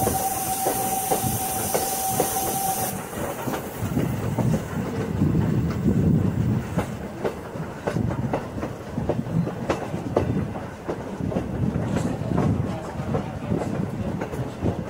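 Train ride in a passenger coach behind a steam locomotive: a steady rumble with wheels clicking over the rail joints. A steam hiss with a thin steady tone cuts off about three seconds in.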